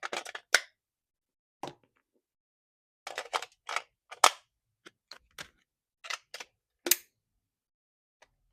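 Handling noise from unboxing a toy: irregular clusters of sharp plastic clicks and crackles, with a few louder snaps and short silences between.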